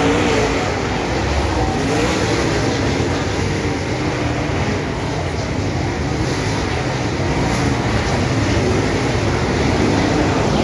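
Dirt late model race cars running on the track, their V8 engines rising and falling in pitch over a constant rumble.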